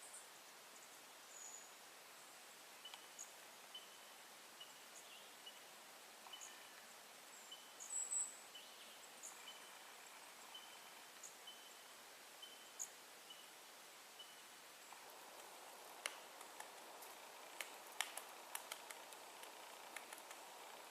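Faint outdoor ambience with a small bird calling: a run of short, evenly spaced high notes, about two a second, with a few higher chirps between. Near the end a cluster of sharp clicks comes in over a slightly louder hiss.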